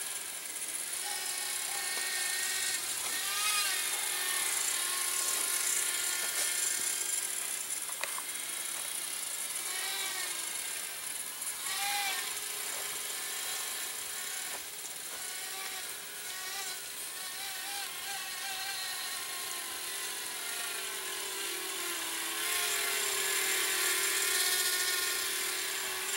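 Blade Inductrix Switch tiny ducted quadcopter in flight, its small electric motors and propellers whining at a high pitch that rises and falls as the throttle changes, a little louder near the end.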